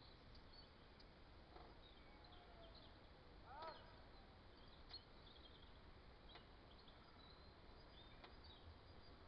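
Faint songbirds chirping and calling over a quiet rural background, with one louder call about three and a half seconds in.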